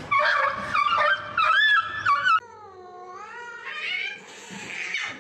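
A pet animal crying out: a run of loud, high cries that jump in pitch, then one long lower call that dips and rises again.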